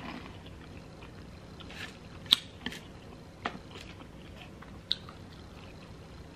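A person chewing food close to the microphone, with a few short wet smacks and clicks of the mouth over soft chewing, the loudest a little over two seconds in.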